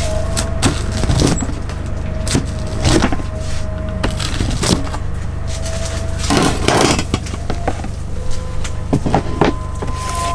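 Pizza being cut and handled: irregular crackling clicks and knocks from the crust and cutter, with a louder cluster of crackles around the middle, over a steady low hum.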